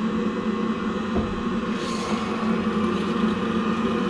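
Steady mechanical hum with a noisy water-like bed from the boiler system filling with water, with a short hiss about two seconds in.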